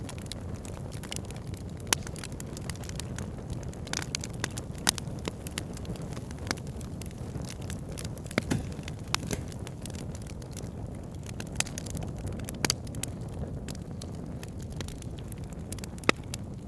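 Wood fire burning in a fireplace: a steady low rumble of flames with frequent sharp crackles and pops of the burning wood. A few pops stand out louder, about two seconds in, near five seconds, and near the end.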